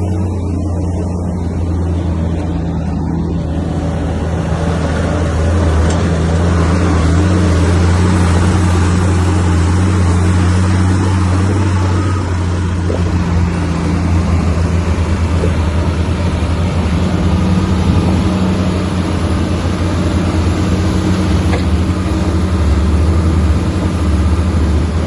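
Diesel engine of heavy earthmoving machinery running steadily with a low drone, growing louder and noisier about four seconds in as it works.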